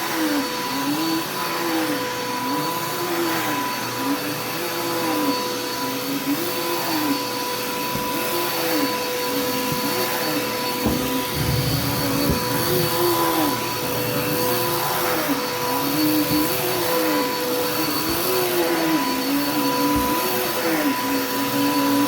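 Vacuum cleaner running over carpet: a steady motor whine, with one lower tone that rises and falls in pitch about every second and a half.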